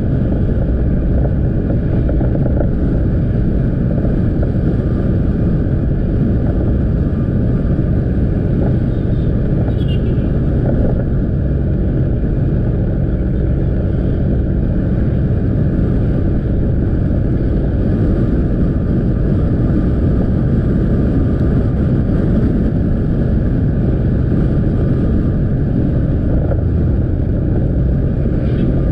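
Motorcycle engine running at a steady cruise, with road and wind noise, heard from a camera riding on the bike.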